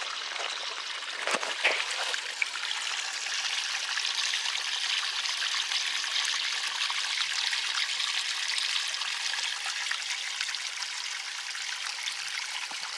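Runoff water trickling steadily through a shallow dug channel.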